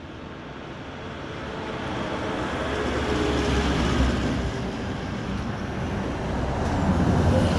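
A road vehicle approaching and passing, its engine and tyre noise growing steadily louder over the first few seconds and staying loud.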